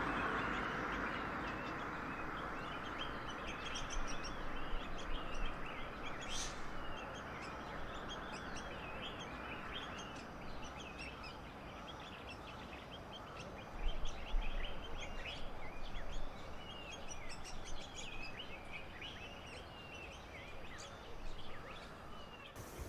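Many birds calling together in a dense chatter of short chirps over a steady rushing hiss that fades away over the first ten seconds.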